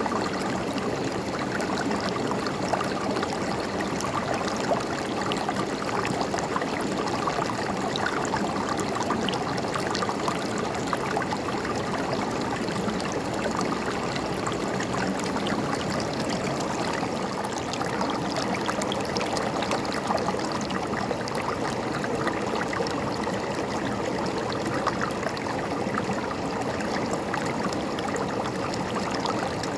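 River water running steadily over rocks, a continuous rushing with fine gurgling splashes.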